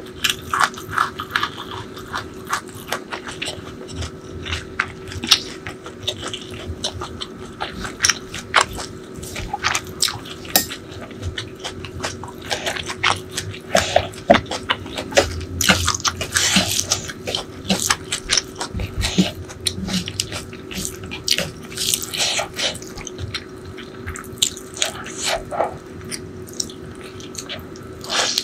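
Close-miked wet chewing and mouth sounds of someone eating spicy chicken liver and gizzard curry with rice by hand: sticky smacks, squelches and quick clicks, dense and uneven all the way through.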